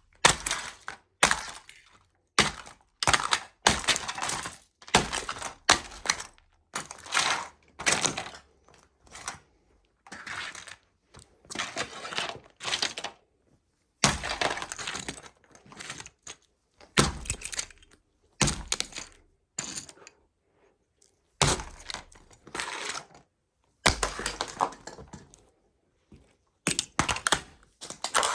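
Toy model trucks being crushed under Nike Air Max 90 sneakers: repeated bursts of cracking and breaking, roughly one a second, with short pauses between them.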